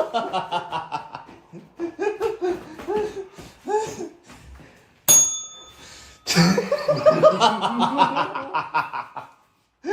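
People laughing hard in two long bouts of rapid, pulsing laughter, with a short break about halfway in that holds a brief steady tone.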